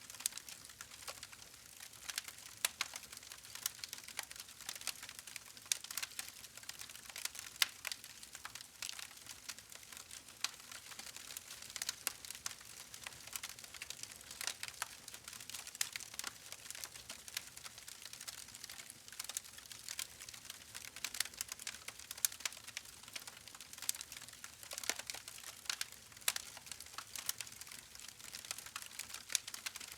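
Campfire crackling: wood burning with a steady soft hiss and dense, irregular sharp pops and snaps.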